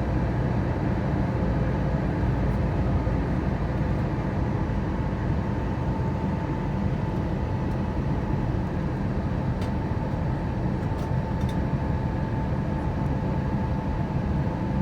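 Steady in-flight aircraft noise: a constant low rumble of engines and airflow, with a faint steady whine.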